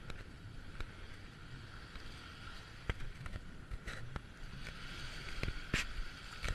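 Muffled sea water heard through a GoPro's waterproof case, a faint steady hiss broken by scattered light clicks and knocks.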